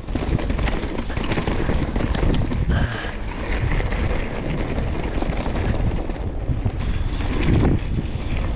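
Wind rushing over the microphone of a mountain bike descending fast, with many sharp clicks and knocks throughout as the bike rattles over roots and stones.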